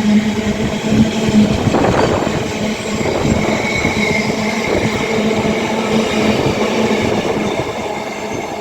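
Freight train rolling through the station at speed, its wagons' wheels running steadily over the rails, the sound easing off slowly toward the end.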